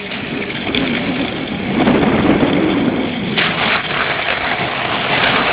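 On-bike noise from a cyclocross bike being raced: wind rushing over the camera microphone mixed with tyres and frame rattling over rough ground, growing louder about two seconds in and hissier near the end.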